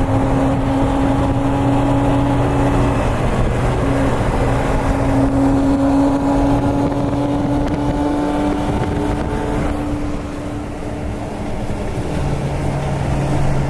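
A car driving at a steady speed: its engine hums at a fairly constant pitch over steady road and wind noise, with a small change in pitch near the end.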